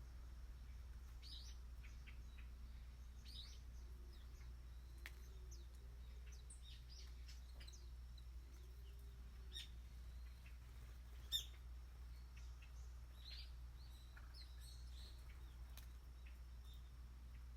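Faint birdsong: small birds giving scattered short, high chirps over a low steady hum, with one sharp click about eleven seconds in.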